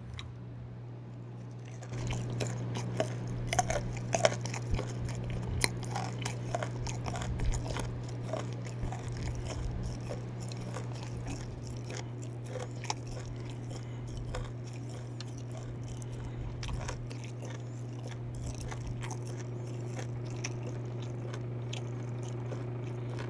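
Close-miked chewing of raw fermented skate (hongeo) slices, with many crisp crunches from the skate's cartilage. The crunching starts about two seconds in, is thickest over the next few seconds and thins out later, over a steady low hum.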